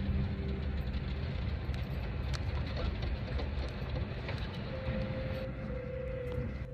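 Passenger train running on the rails, heard from inside the carriage: a steady rumble of the wheels with a few sharp clicks, about two and four seconds in.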